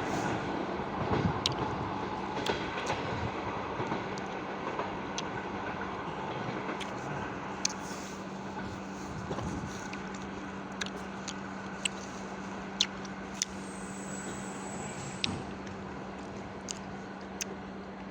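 Electric train at a station: a steady electrical hum over a running noise that slowly fades, with scattered sharp clicks. A thin high tone sounds for about two seconds near the end.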